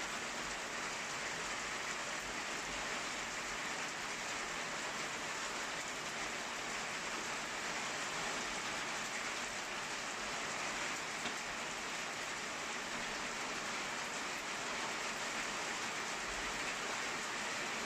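Steady rain falling during a thunderstorm, an even hiss with no thunder. One small tick stands out about eleven seconds in.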